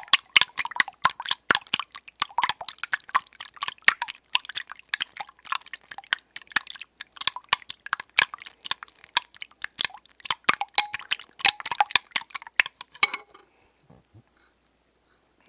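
Eggs being beaten in a bowl: quick, irregular clicking and tapping, several strokes a second, that stops about 13 seconds in.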